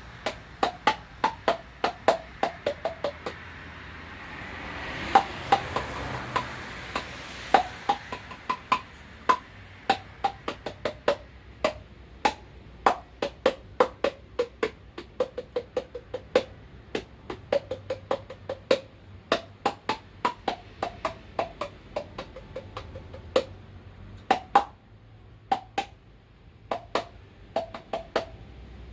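Mouth percussion: rapid, sharp pitched clicks and pops made with the mouth, several a second, their pitch shifting from note to note so they tap out a tune like a wood block. A soft hiss swells and fades about five seconds in.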